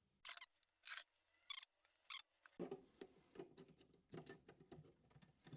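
Small scratchy, rustling handling noises of parts and wires being worked on a bench: three short scratches in the first two seconds, then a run of faint irregular little noises.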